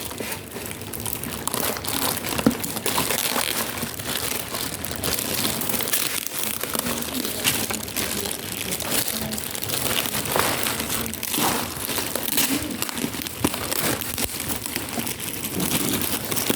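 Plastic parcel wrapping crinkling and rustling with many small crackles as a package is handled and unpacked.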